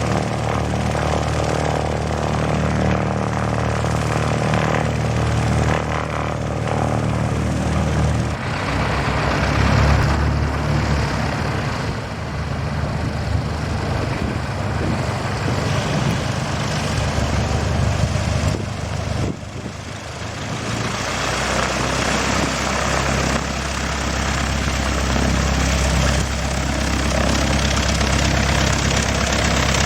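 Propeller airplane engine running with a steady low drone that shifts in pitch about eight seconds in and again about twenty seconds in.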